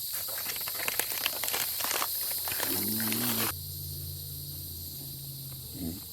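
Steam hissing and wood crackling on a campfire, with many sharp pops. The sound cuts off suddenly about three and a half seconds in, leaving a quieter low steady hum and insects chirping.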